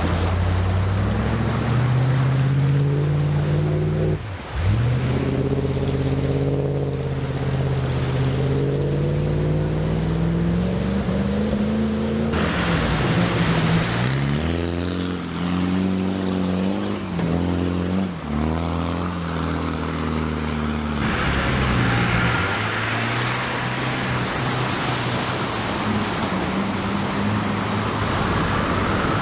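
Off-road 4x4 engines revving and labouring, their pitch climbing and dropping as the throttle is worked. The sound changes abruptly a few times.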